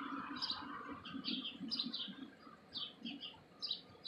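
Small birds chirping: a quick run of short, falling chirps, a few each second, with a soft rushing noise under them in the first second.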